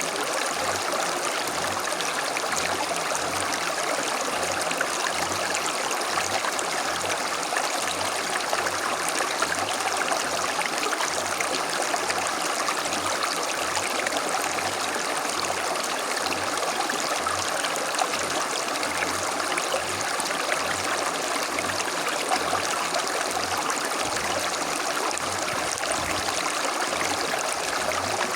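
A creek running and babbling over stones, a steady rush of flowing water.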